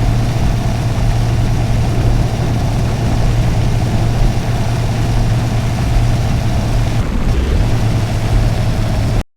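Steady drone of a car's engine and road noise heard from inside the car, with no change in pitch; it cuts off suddenly near the end.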